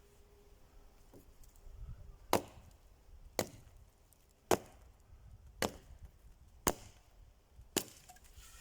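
Wood being chopped with an axe: six sharp strikes about one a second, starting about two seconds in.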